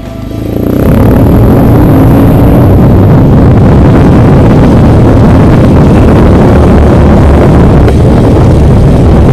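Motorcycle engine running at speed under heavy wind noise on the microphone, with a faint rising engine note early on.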